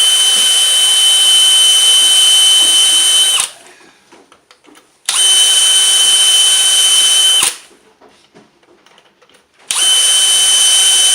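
A small high-speed power drill grinding out the old packing in a Hoffman #7 steam radiator valve. It runs in three bursts of a few seconds each, with a steady high whine, and stops briefly between them.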